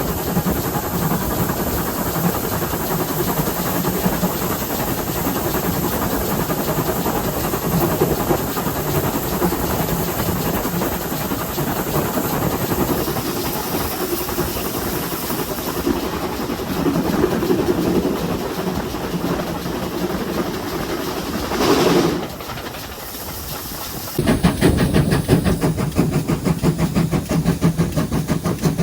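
GWR 57xx-class 0-6-0 pannier tank steam locomotive under way, a steady noisy running sound with steam hiss. About 22 seconds in there is a short burst of hiss, then after a brief lull the sound turns louder with a rapid, even beat.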